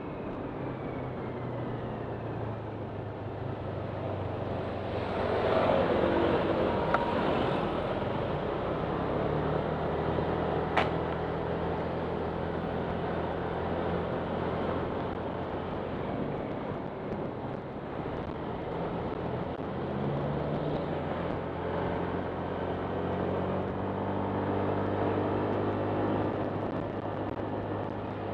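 Honda Click 125 scooter's single-cylinder engine running on the move, its pitch shifting with speed over wind and road noise. The noise swells for a few seconds around six seconds in, and there is one sharp click about eleven seconds in.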